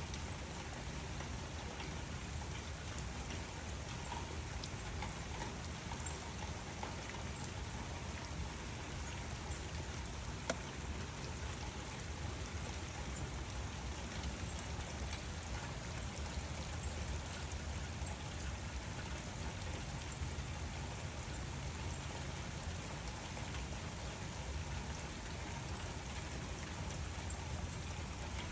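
Steady rain falling: an even hiss with scattered single drops ticking through it, one sharper drop about ten seconds in.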